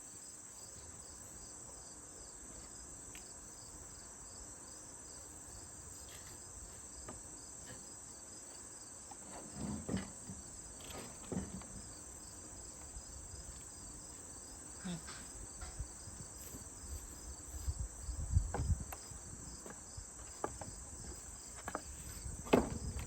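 A steady high chirring of insects with no words over it. Scattered knocks and thumps start about ten seconds in and come more often toward the end.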